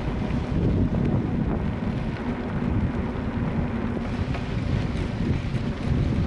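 Strong gusty wind blowing over the microphone: a heavy low rushing noise that swells and eases with the gusts.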